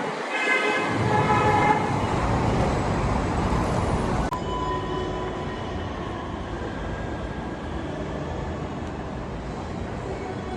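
Lagos Blue Line electric train running: a steady rumble and rush, with a brief high tonal squeal in the first two seconds. About four seconds in the sound changes abruptly, leaving the rumble with a faint steady whine.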